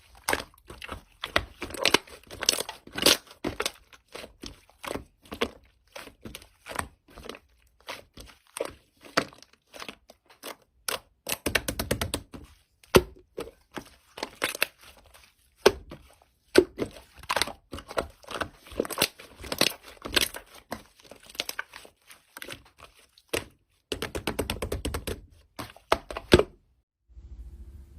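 Slime being played with by hand: a dense run of sticky pops, clicks and crackles, with quicker flurries of crackling about twelve seconds in and again near the end.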